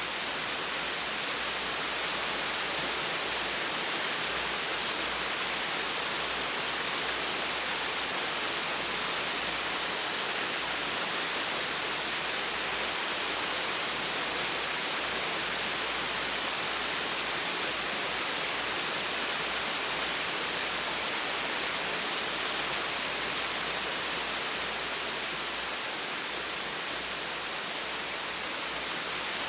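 Small waterfall splashing with a steady, even rush of falling water.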